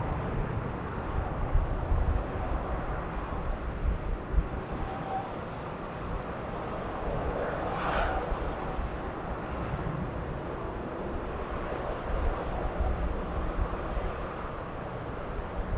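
Boeing 787-8 airliner's Rolls-Royce Trent 1000 turbofans at takeoff thrust: a steady jet rumble that swells briefly about halfway through.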